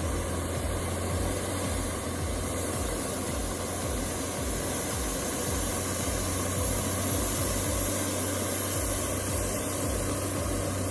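Diesel tractor engine running steadily under load as it pulls heavy logs through mud, with a low, even drone.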